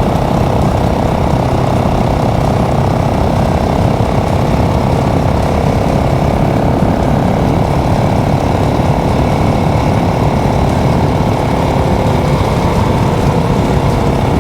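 Motorcycle engine running at a steady speed while riding, with a low rumble of wind noise on the microphone.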